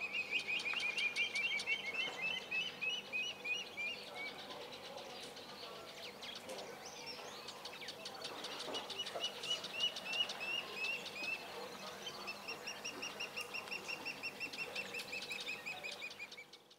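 Wild birds calling: three long runs of rapid repeated high notes, about four a second, the first run falling slightly in pitch, over faint fine high ticking.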